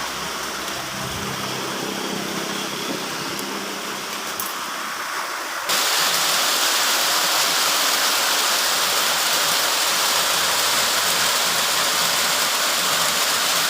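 Heavy rain falling, a steady rushing hiss with a faint low hum underneath in the first half. About six seconds in it turns suddenly louder and brighter and stays that way.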